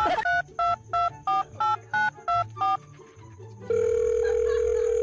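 Telephone keypad tones: about eight quick dual-tone beeps, roughly three a second, as a number is dialed. About a second after they stop, a steady single phone tone comes on.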